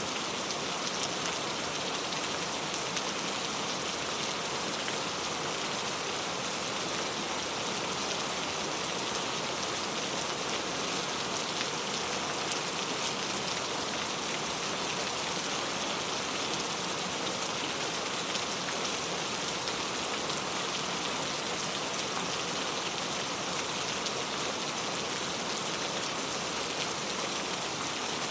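Steady rain falling, an even, unbroken hiss of many drops hitting surfaces.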